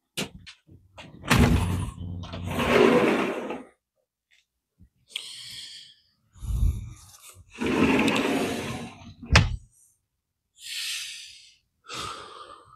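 A door being opened and shut: rumbling, scraping movement, a low thump, and a sharp knock about nine seconds in.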